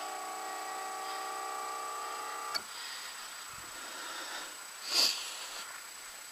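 Outboard's electric power trim/tilt motor whining steadily as it raises the engine, then cutting off abruptly with a click about two and a half seconds in. A single knock follows near the end.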